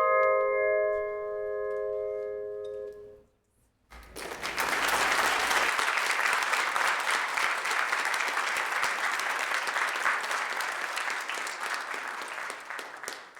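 The final chord of a tuned bell or mallet-percussion piece rings out for about three seconds and fades. After a brief hush, a congregation applauds steadily for about nine seconds until the sound cuts off.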